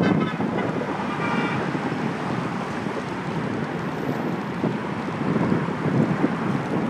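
Wind buffeting the microphone of a handlebar-mounted phone on a moving bicycle, mixed with city traffic noise, as a steady rushing. A brief high pitched tone sounds during the first second and a half.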